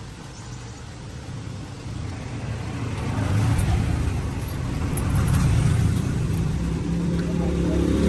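An engine running with a low rumble, growing steadily louder from about two seconds in.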